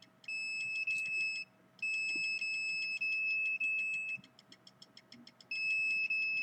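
Electronic alarm sounding: a steady high-pitched beep tone held in long stretches of one to two seconds, broken by short gaps, with a quick run of ticks about four seconds in before the tone comes back.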